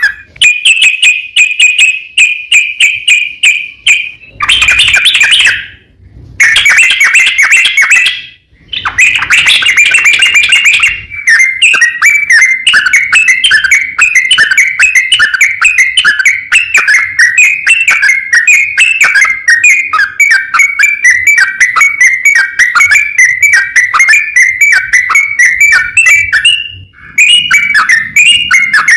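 Yellow-vented bulbul (trucukan) calling in fast strings of short chattering notes, loud and nearly nonstop, broken by brief pauses. A few bursts of denser notes come in the first ten seconds, and a steady run of chatter fills the rest.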